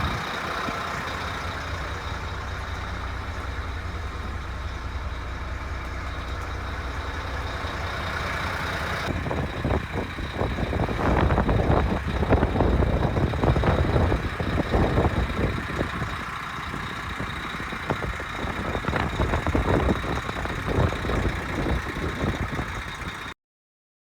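Diesel engine of a DAF CF75 prime mover running: a steady low hum at first, then louder and uneven surges from about nine seconds in. The sound cuts off abruptly near the end.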